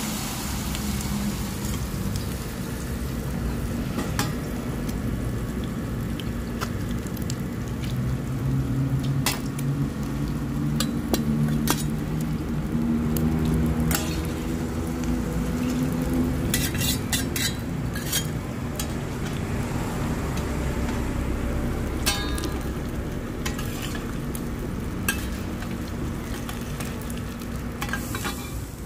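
Mussel omelette batter sizzling and frying in oil on a wide flat griddle pan. Metal spatulas and a fork tap and scrape against the pan now and then, with a quick run of clicks a little past halfway, over a low rumble.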